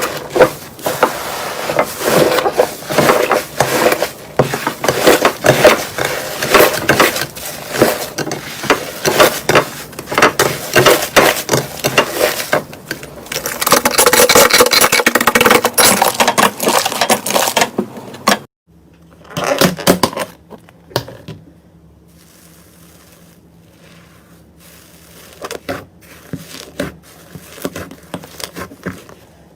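Slime being squeezed and worked by hand: dense, rapid crackling and popping that cuts off suddenly about two-thirds of the way through, leaving only scattered faint clicks.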